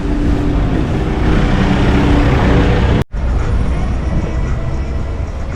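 Strong blizzard wind buffeting the microphone: a loud, steady roar with a deep rumble. It cuts out abruptly about three seconds in, then a similar steady roar resumes.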